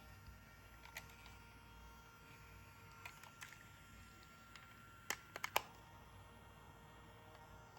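A few sharp clicks over a faint steady hum, with a quick cluster of three clicks about five seconds in.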